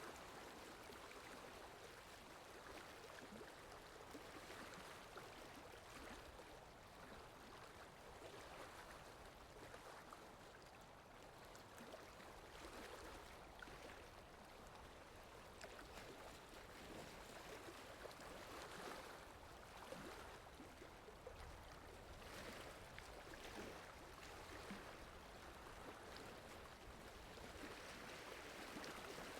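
Faint, steady rain ambience: an even wash of falling water with gentle swells.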